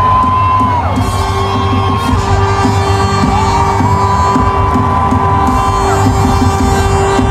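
Live worship music: a steady held chord over bass and a light beat, with long high notes that slide up into pitch and are held for several seconds. Whoops and shouts from the congregation come through.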